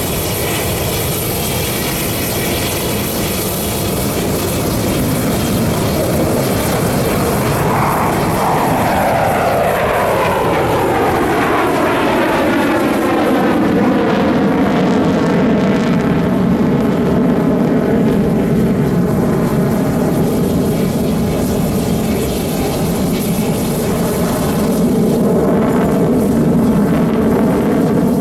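Jet noise from Russian Knights Su-30SM fighters flying past, with a steady low rumble; from about eight seconds in a whine sweeps downward in pitch for several seconds and then levels off as the jets go by.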